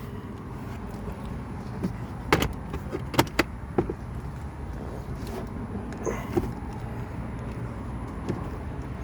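Sharp plastic clicks and knocks of the Jeep Grand Cherokee's glove-compartment trim and cabin-filter cover being handled and snapped back into place: a cluster of several between about two and four seconds in, and a couple of fainter ones after six seconds.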